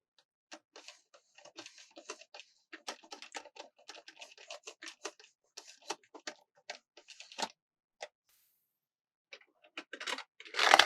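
Fingers tapping and clicking on plastic, many quick irregular taps, then a pause and a louder burst of rustling near the end.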